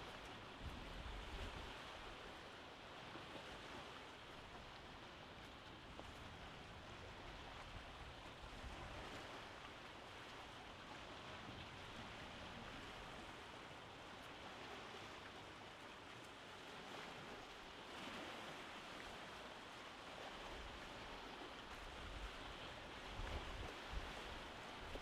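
Faint, steady rain falling during a summer storm, an even hiss, with brief low rumbles in the first couple of seconds and again near the end.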